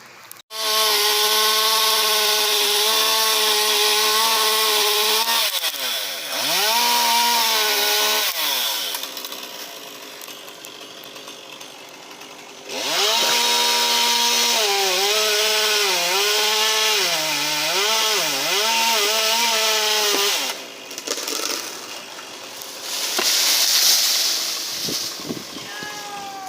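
Chainsaw engine running at high revs, easing off after about five seconds, then revving again and sagging in pitch over and over as it cuts into wood.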